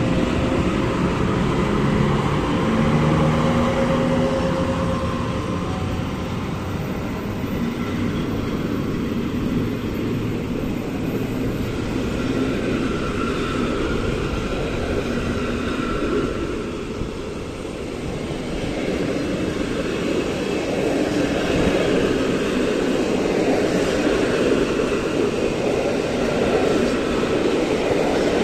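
Departing passenger train rolling past: a steady hum from the EP09 electric locomotive fades within the first few seconds, then the coaches' wheels keep up a steady rumble on the rails.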